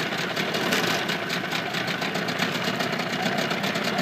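Mercury 25 hp two-cylinder two-stroke outboard motor running steadily in reverse gear.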